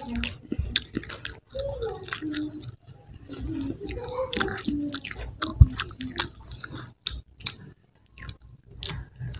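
Chewing and biting into crispy fried chicken, with irregular sharp crunches and pauses between mouthfuls.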